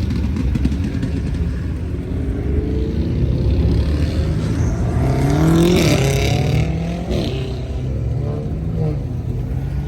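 Car engine accelerating hard, its pitch rising through a gear and dropping sharply at upshifts about six and seven seconds in.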